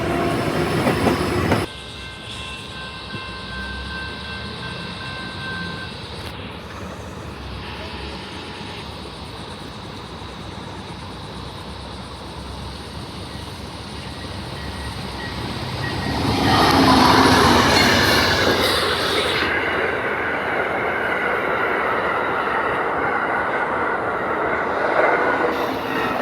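Passenger train running along the track. The sound drops abruptly shortly after the start, then swells loud again about sixteen seconds in and holds until near the end.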